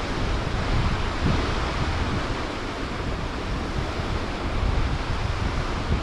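Wind buffeting the microphone in gusts, a rumbling low roar over a steady rushing hiss.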